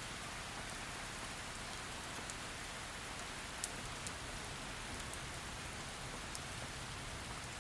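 Heavy rain falling in a steady, even hiss, with sharp ticks of single drops striking close by, the loudest about three and a half seconds in.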